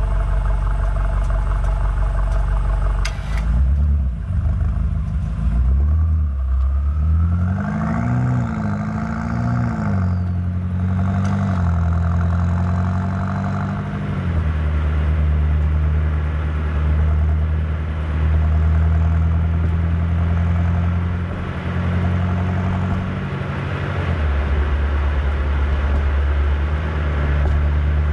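BMW M8 Competition's twin-turbo V8 running on the move, its low note stepping up and down with shifts and throttle. About a third of the way in the revs rise and fall a few times, then it settles into a steady low note.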